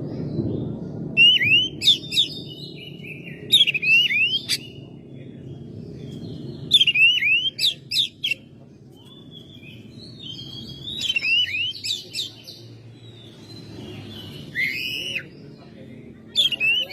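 Oriental magpie-robin (kacer) singing in short phrases of sweeping whistles and chirps, repeated every two to three seconds, over a steady low hum.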